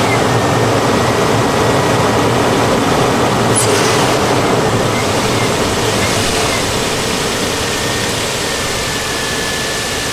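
Toyota Land Cruiser 100 series engine idling steadily just after starting, on its first test run after a new throttle position sensor was fitted. The level eases slightly about six and a half seconds in.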